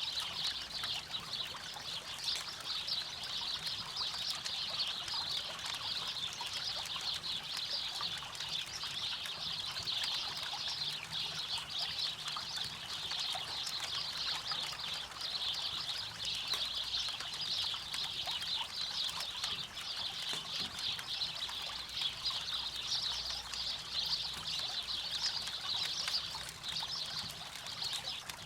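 River water running and trickling steadily, with many small crackles and pops from a campfire.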